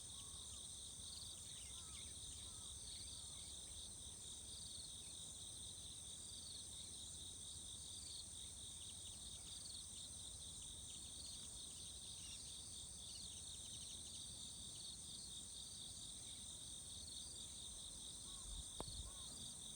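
Insects chirring in a steady, faint, high-pitched chorus, with occasional short bird chirps over it. A single short knock comes near the end.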